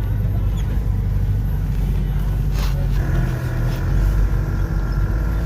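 Jeep Cherokee driving slowly off-road, heard from inside the cabin: a steady low engine and drivetrain rumble, joined about halfway through by a steady higher hum.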